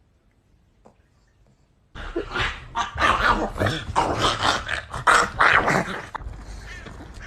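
A dog barking and growling in a rapid run of loud, rough bursts, starting about two seconds in and easing off near the end.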